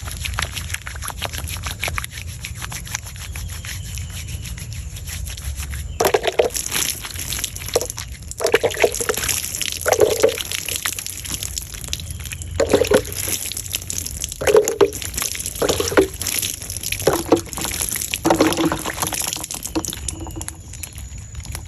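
Water being poured and splashed in irregular bursts, starting about six seconds in, over a steady low rumble.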